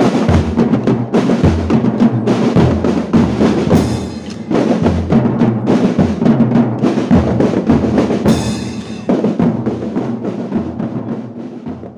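Marching drum band playing: rapid snare and bass drum strokes, with a crash about four seconds in and another just past eight seconds, the playing fading out near the end.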